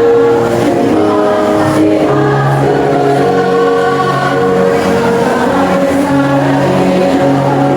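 Choir singing in several parts, holding long notes together and moving from chord to chord.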